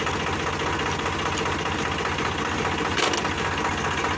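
Tractor diesel engine running steadily with an even, fast knocking pulse. A short sharp click about three seconds in.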